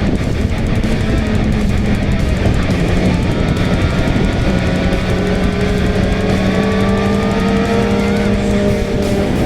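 Background guitar music over a motorcycle running at a steady pace, with a dense rush of engine and wind noise.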